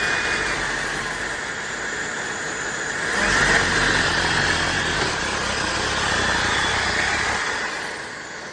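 Shark Stratos cordless stick vacuum running with a high whine. It gets louder about three seconds in, then begins to wind down near the end.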